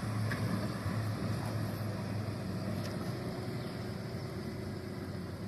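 Heavy truck's diesel engine running steadily with a low hum, easing off slightly in level toward the end.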